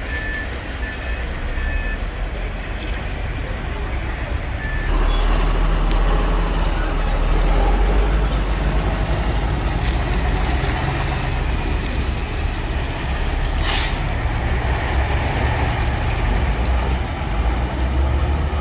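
Heavy diesel engines of a dump truck and a bulldozer working under load, growing louder about five seconds in, with a short hiss of air from the truck's air brakes about three-quarters of the way through.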